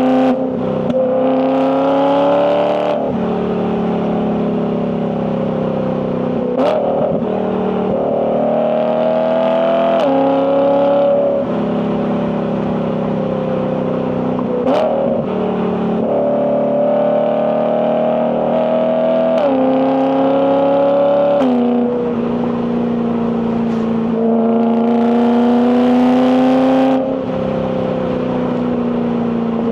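BMW E92 M3's S65 4.0-litre V8 and exhaust under load on a winding drive: the engine note climbs with the revs and drops sharply at each DCT gear change, several times over. A few brief sharp cracks come through at some of the shifts.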